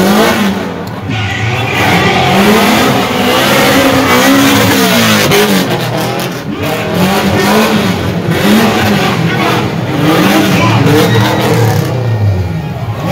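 A car engine revving hard, its pitch swinging up and down again and again, over a steady roar of noise.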